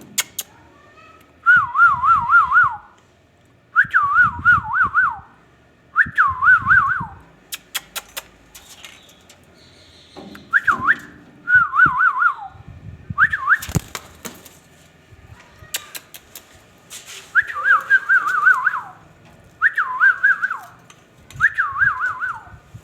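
Ringneck parrot whistling a warbling phrase over and over, about nine times. Each phrase lasts a second or so, its pitch wavering quickly and dipping at the end, with a few short clicks in between.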